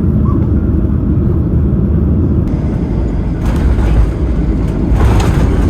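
Loud, low rumble of a Boeing 737-800 heard from inside the cabin, with brief louder rattling surges about two-thirds of the way in and again near the end.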